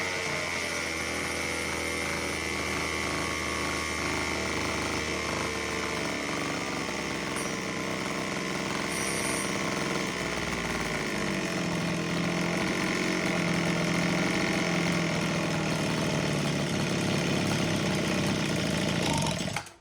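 Homelite HT17 hedge trimmer's small two-stroke engine running steadily, its speed shifting about halfway through, then stopping abruptly near the end. It is running on a freshly adjusted carburetor, its mixture screws set three turns out, and is not yet holding a steady idle.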